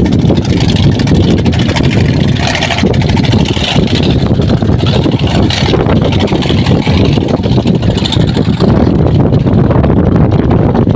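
Strong wind buffeting the microphone: a loud, steady low rumble with no pitch to it.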